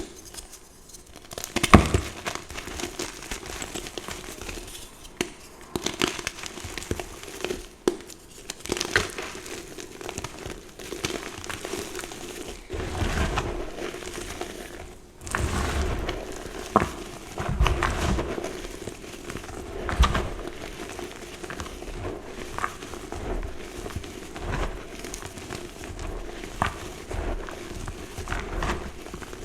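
Blocks of reformed gym chalk being crushed: an irregular run of crunches and crackles as the chalk breaks apart and crumbles.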